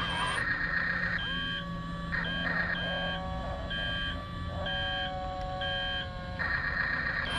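Toy RC bulldozer's built-in sound module playing a reversing beep, about one short high beep a second, over the steady electric whine of its small drive motors, which starts with a rising glide about a second in and stops near the end. A buzzier sound effect from the toy is heard before and after the beeping.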